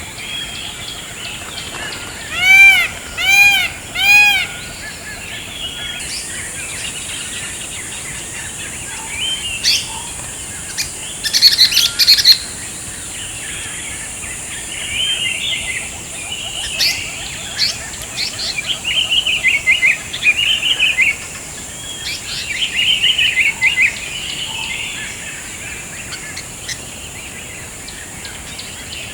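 Wild birds calling: three loud arched whistled calls close together about two and a half seconds in, then scattered chirps, a burst of sharp chirps around twelve seconds, and quick trills later, over a steady high hiss.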